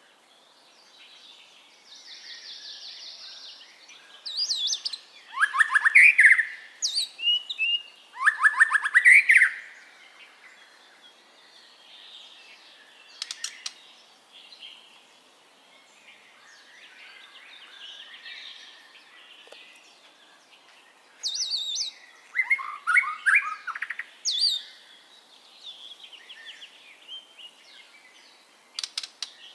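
White-rumped shama singing in separate bursts of loud, rich phrases, with softer chattering notes and quick clicking runs between them.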